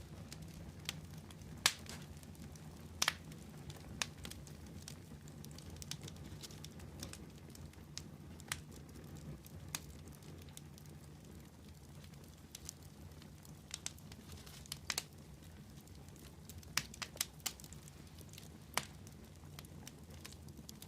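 Wood fire crackling: irregular sharp pops and snaps, several in quick succession near the end, over a steady low background of burning.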